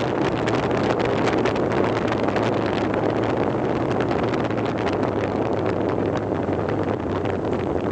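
A vehicle travelling over a gravel forest road: steady engine and road noise with many small stones ticking and knocking, and wind buffeting the microphone.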